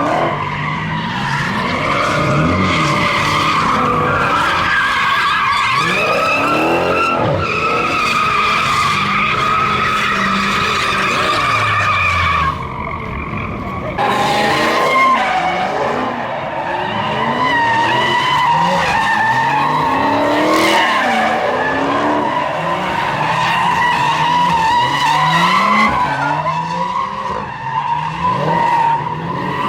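Tires squealing almost without a break as Hemi V8 muscle cars slide in circles, their engines revving up and down underneath. The squeal drops out briefly about twelve and a half seconds in, then resumes.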